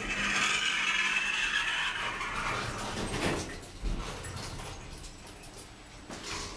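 Ace passenger lift's single two-speed sliding doors closing with a loud sliding rush for about two and a half seconds, then a low thump about four seconds in, followed by quieter running as the car moves off.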